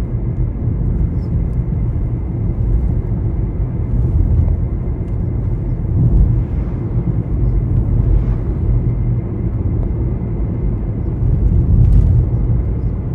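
Wind buffeting the microphone: a loud, gusting low rumble that swells and eases every few seconds, with a few faint high chirps or ticks over it.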